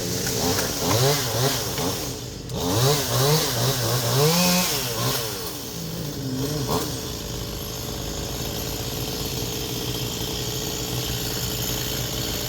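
Chainsaw engine revved up and down several times over the first six seconds or so, then running steadily at a lower speed.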